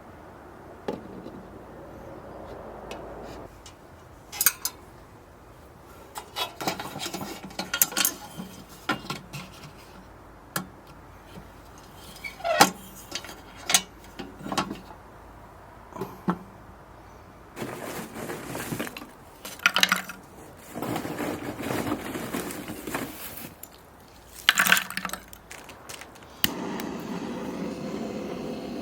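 Scattered clinks and clatters of hard objects being handled, like dishes, pots and utensils being set out, with a steadier rustling noise taking over near the end.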